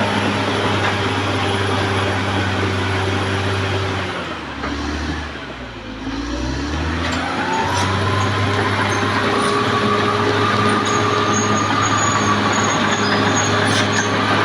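Caterpillar D6R XL bulldozer's diesel engine running steadily under load. About four seconds in the engine note drops and eases off, then climbs back about three seconds later with a rising whine.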